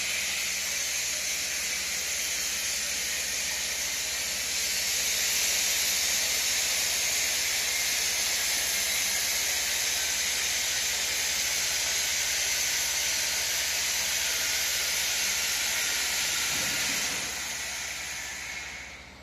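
Compressed air hissing steadily into the air-bladder system of a CNC plasma water table, raising the water level. It gets louder about four seconds in, then fades and stops near the end as the air is shut off.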